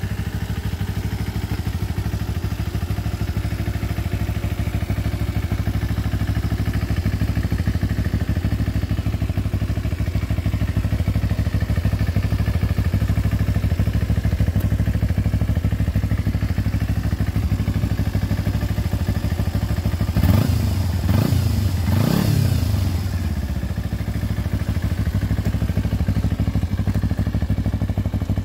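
Kawasaki Ninja 250R (EX250) parallel-twin engine idling steadily, revved up and back down three times in quick succession near the end.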